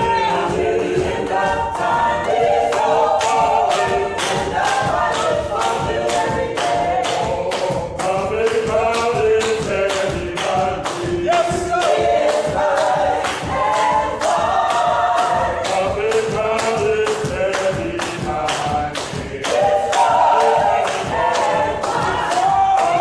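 Gospel choir singing a cappella, with a steady beat of sharp strikes about twice a second underneath.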